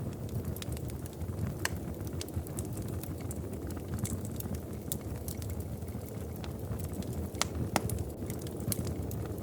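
Wood fire crackling in a fireplace: irregular sharp pops and snaps over a steady low rumble, with a couple of louder pops about three-quarters of the way through.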